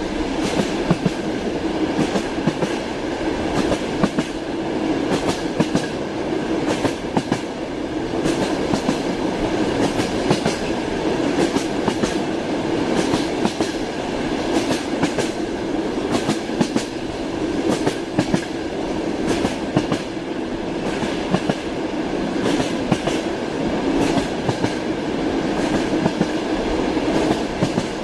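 Train wheels knocking over the rail joints: a steady rolling rumble with repeated sharp clickety-clack clicks throughout.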